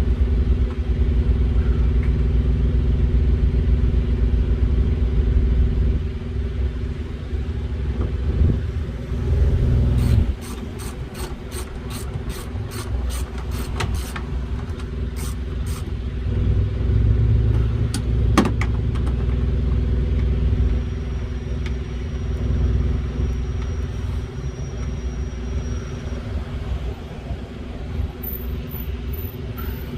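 A truck's diesel engine idling steadily. About a third of the way in comes a run of sharp metallic clicks, about three a second, from hand-tool work fastening the new hood latch, with a few more clicks a little later.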